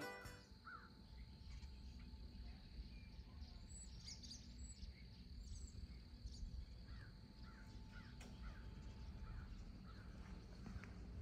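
Faint outdoor ambience with a low background rumble and scattered short bird calls and chirps, most of them in the middle of the stretch.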